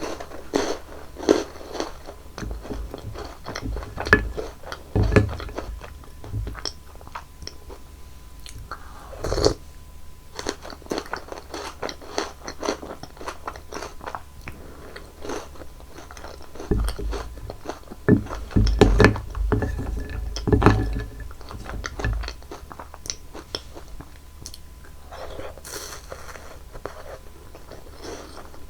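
Close-miked crunching and chewing of chocolate candies, a steady run of crisp bites with louder crunchy bursts every few seconds.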